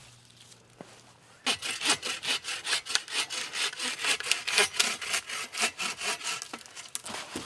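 Hand saw cutting through wood in quick, regular back-and-forth strokes, about three a second, starting about a second and a half in.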